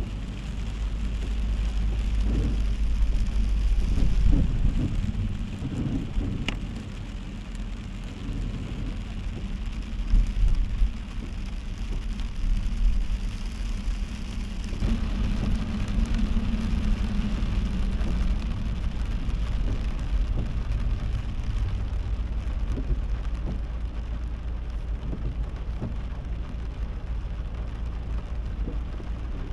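Heavy rain pattering on a moving car over the steady low rumble of the car's engine and tyres on the wet road.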